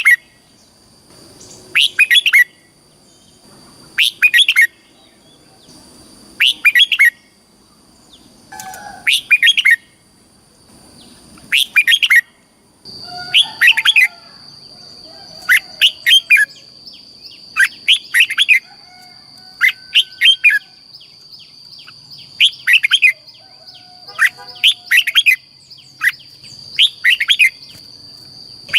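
Red-whiskered bulbul singing short, loud phrases of quick chirpy notes, repeated about every two seconds. A thin steady high-pitched tone runs underneath and grows stronger about halfway through.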